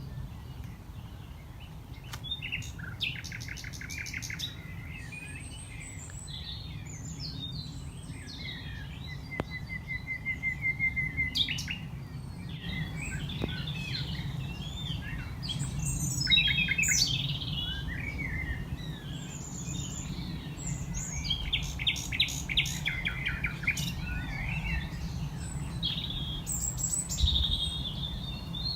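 Male common nightingale singing at night: varied phrases of whistles and rapid runs of repeated notes, with short pauses between phrases. A steady low rumble runs underneath.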